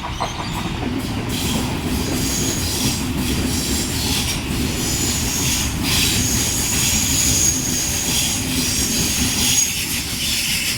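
Sydney Trains H set (OSCAR) double-deck electric train passing through the platform, a loud steady rush and rumble of wheels on rail. A high wheel squeal comes in through the middle of the pass.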